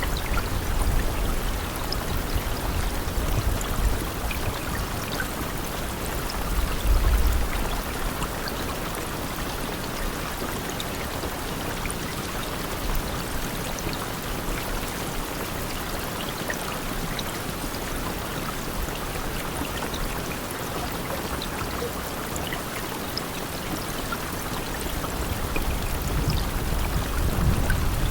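Steady rain: an even hiss of falling and running water with scattered drop ticks. A low rumble swells during the first few seconds and again near the end.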